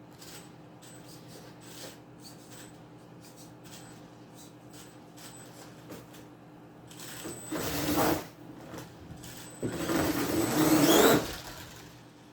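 Mini RC monster truck's brushless electric motor whining up in pitch as it accelerates, in two bursts in the second half, the second louder. Before that there are only faint ticks and clicks.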